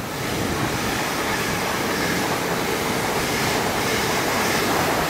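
South Western Railway electric multiple unit passing through the platform at speed without stopping: a steady rush of wheels on rail and moving air. It rises sharply at the start and then holds level.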